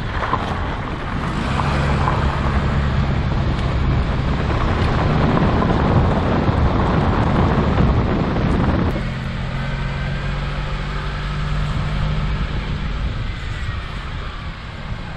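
A motor vehicle on the move: steady engine hum under road and wind noise. About nine seconds in the rushing noise drops away and the low engine hum continues.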